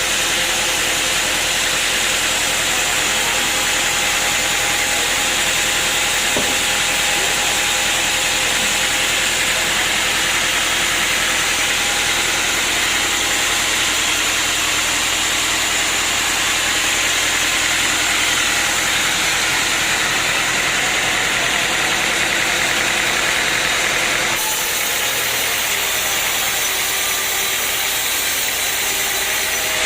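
Sawmill machinery running with a steady mechanical noise and a faint hum, changing abruptly near the end.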